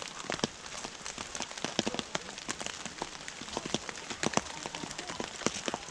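Rain falling, with drops tapping irregularly and sharply on a surface close to the microphone over a steady wet hiss.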